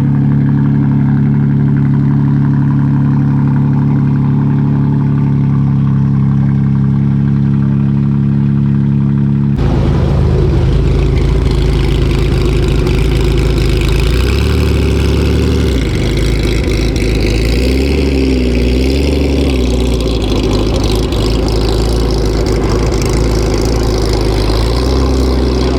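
BMW M3 (G80) engine idling steadily just after a start. About nine seconds in the sound changes abruptly to a rougher, noisier engine sound whose pitch rises and falls a little.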